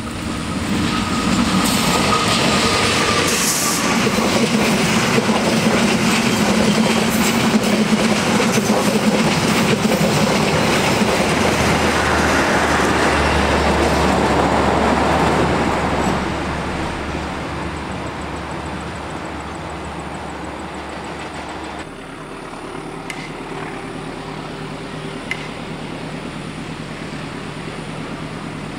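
A train passing close by, its wheels rumbling and clattering over the rail joints. Loud for about fifteen seconds, then fading as it moves away.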